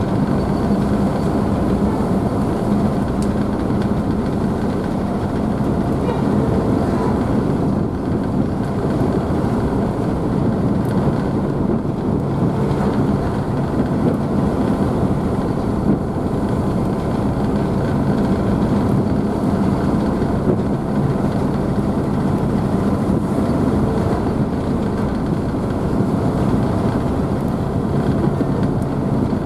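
A car ferry's engines running steadily with a low drone, mixed with the rushing and splashing of the wake, heard from the open rear deck.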